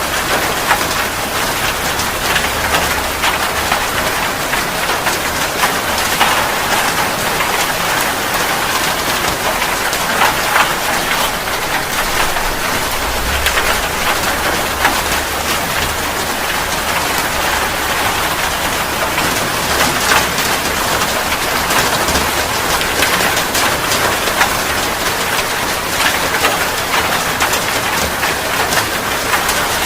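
Steady heavy rain, with many drops striking a surface in a dense, even hiss.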